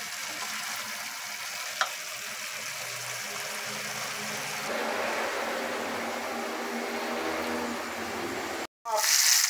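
Chicken cubes frying in a tomato and onion sauté in an aluminium pan, stirred with a silicone spatula: a steady sizzle with one sharp tap about two seconds in. After a brief break near the end comes a louder, higher sizzle of a beef roast searing in a cast-iron skillet.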